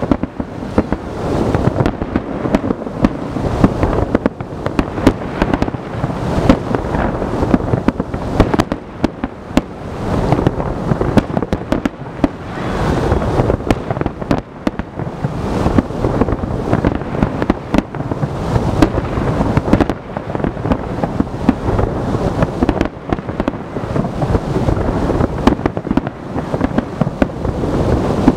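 Large fireworks salute: a dense, unbroken barrage of shell bursts, many bangs a second running together.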